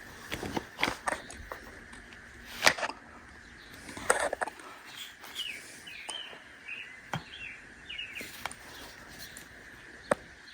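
Hand rivet tool clicking and clacking as a blind rivet is squeezed in, with a sharp clack about two and a half seconds in and another about four seconds in. Small birds chirp faintly in the background.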